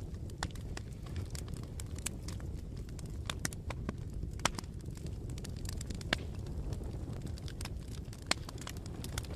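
Campfire burning: a steady low rumble of flames with irregular crackles and several sharper pops from the burning wood.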